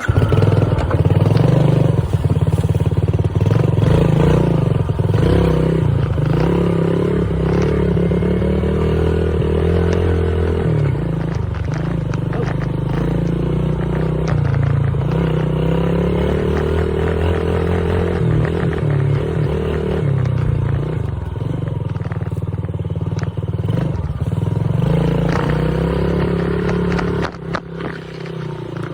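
Dirt bike ridden along a trail: its motor rises and falls in pitch with speed under heavy wind buffeting on the microphone, with scattered knocks and rattles from the ride.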